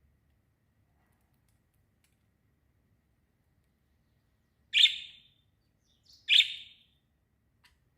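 A small bird chirping: two loud, sharp, high chirps about a second and a half apart in the second half, with a faint short chirp just before the second.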